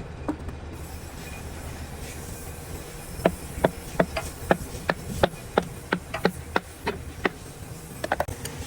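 A series of sharp knocks, about three a second for some four seconds, then a quick cluster of clicks near the end, over a low steady hum.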